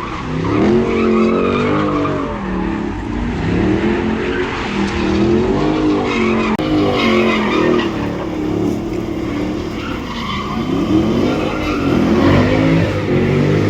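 Car engine revving up and down again and again while its rear tires squeal and skid through a donut.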